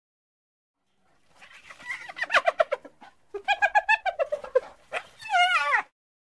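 A bird calling: about a second of silence, then a run of rapid, harsh, pulsing calls, ending in a wavering call that falls in pitch near the end.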